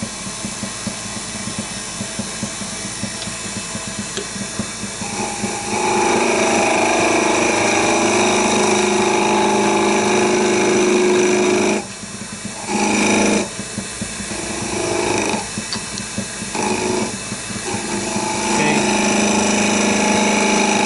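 Wood lathe running steadily while a turning tool cuts into the spinning wood: one long cut from about six seconds in to about twelve, then several shorter cuts with pauses between them.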